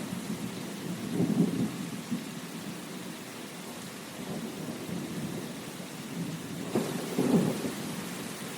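Steady rain with low rumbles of thunder, swelling about a second in and again near the end.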